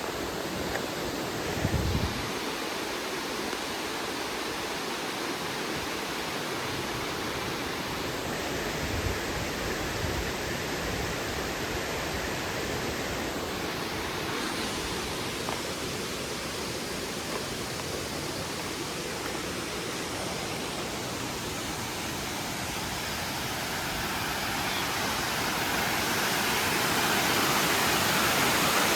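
Rainforest stream water rushing over a small dam: a steady, even rush that grows louder over the last few seconds, with a brief low thump about two seconds in.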